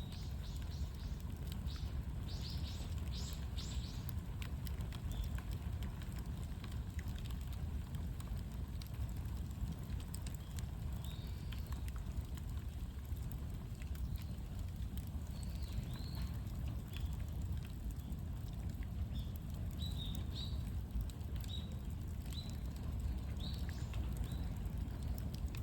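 Bonfire crackling with many small pops over a steady low rumble, while small birds give short chirping calls, a few early on and more through the second half.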